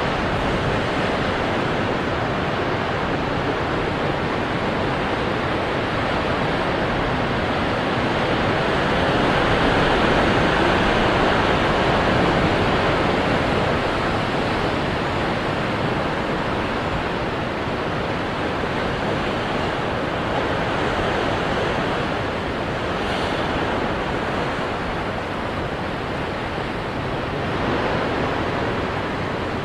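Ocean waves breaking on rocks: a continuous wash of surf that swells louder about ten seconds in and again near the end.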